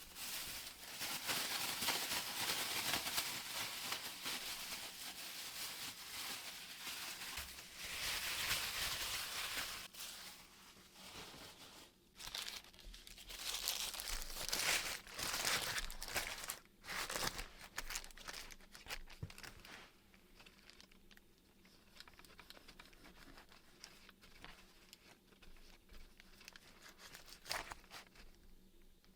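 Rustling, crinkling handling noise in dense bursts for about twenty seconds, then quieter and more scattered, over a faint steady low hum.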